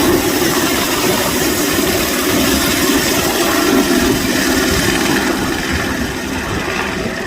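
Helicopter engine and rotor running loudly and steadily, growing fainter over the last two seconds.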